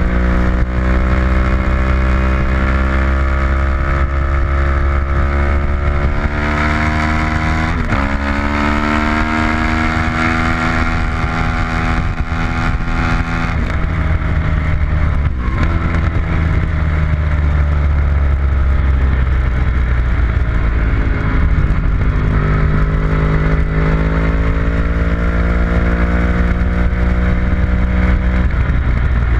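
Engine of a vehicle lapping a race track at speed, its pitch falling and rising with throttle and gear changes, with sudden breaks in pitch at the shifts about a quarter, half and near the end of the way through.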